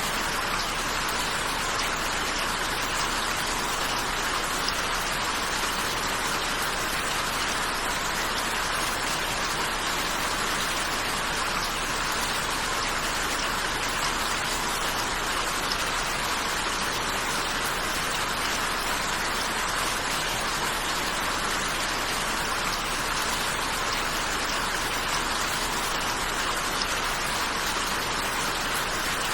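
Steady rain falling, an even hiss of drops with no let-up or change.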